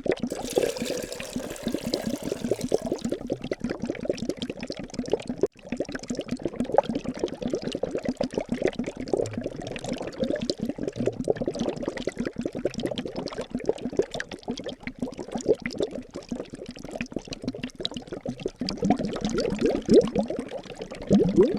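Liquid bubbling continuously, a dense stream of small bubbles popping. A soft hiss rides over it for the first few seconds.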